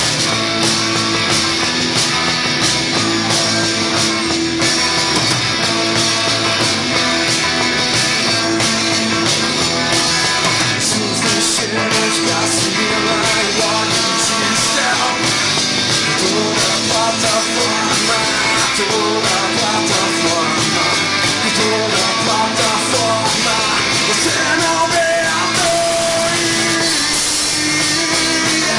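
Loud punk rock music with electric guitar, an instrumental stretch of the song with no lyrics sung.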